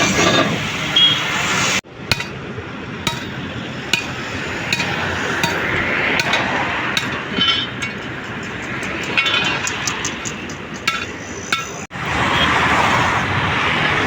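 Metal clinking and light knocks from truck body fabrication work, scattered irregular strikes over a steady workshop background noise. The sound breaks off abruptly twice, about two seconds in and near the end.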